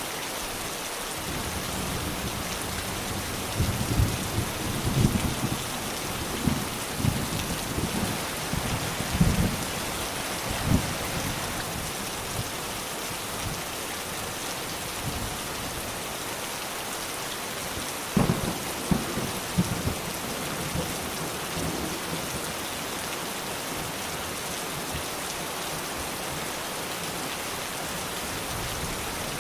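Steady heavy rain hissing on surfaces, with rolls of thunder rumbling low twice: a long one starting about four seconds in, and a shorter one past the middle.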